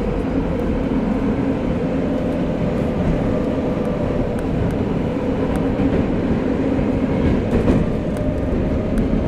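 Tokyo Metro 05 series subway train running between stations, heard from inside the car: a steady rumble of wheels on rail and running gear, with a constant low hum.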